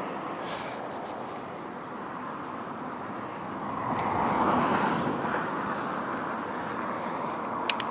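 Wind and road noise from riding a bicycle along a road, a steady rushing that swells louder for about a second midway. A few sharp clicks near the end.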